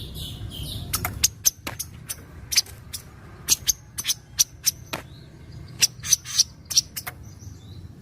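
Kaso-kaso bird giving a string of short, sharp chip notes at irregular intervals, about twenty in all, over a low background hum.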